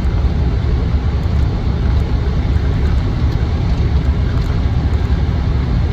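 Inside the cabin of a 1998 Land Rover Defender 90 cruising at road speed: its 4-litre V8 and automatic gearbox run steadily under a heavy, even low rumble of road and tyre noise.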